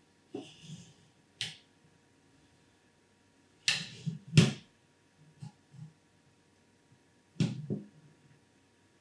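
A few sharp knocks and clacks of hard parts and packaging being handled, about five spread over the stretch with quiet gaps between, the loudest pair close together a little before the middle.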